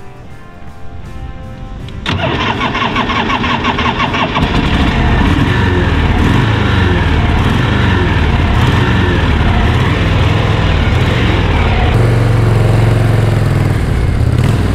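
Background music, then about two seconds in the Harley-Davidson Shovelhead V-twin on a 1979 FLH sidecar rig starts up. It runs with the revs rising and falling as the throttle is worked, and near the end it pulls away under power.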